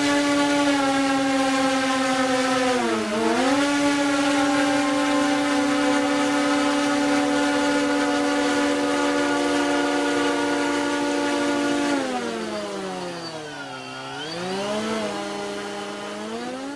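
DJI Phantom 2 quadcopter's motors and propellers humming in flight with a steady pitched whine. The pitch dips briefly about three seconds in, then sinks well down and rises back again near the end as the throttle is eased and opened.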